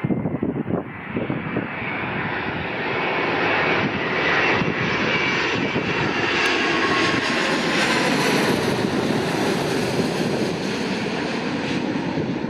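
Jet airliner passing close by: engine noise swells over the first couple of seconds and stays loud, with a tone sliding down in pitch as it goes past. Wind gusts buffet the microphone.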